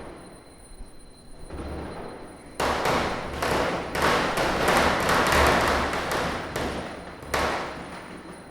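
Diwali firecrackers bursting: a rapid, dense run of cracks begins about a third of the way in and lasts about four seconds, then one more sharp bang comes near the end and fades away.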